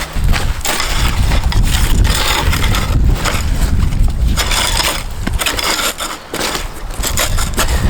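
Strong gusting wind rumbling on the microphone, with repeated irregular rustling and crackling bursts over it.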